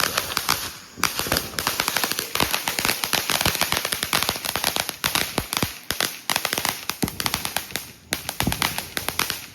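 Fireworks going off in a rapid barrage: dozens of sharp pops and cracks in quick succession, like a string of firecrackers, with short lulls about a second in and again near the end.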